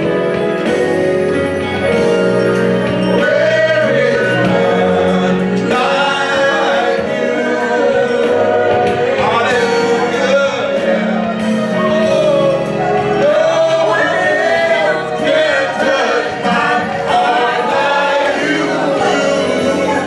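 Gospel praise-and-worship music: voices singing over steady, held instrumental accompaniment.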